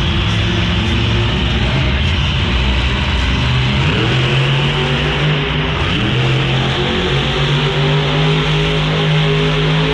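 Monster truck engine revving hard, its pitch climbing sharply about four seconds in and again about two seconds later, then holding at high revs.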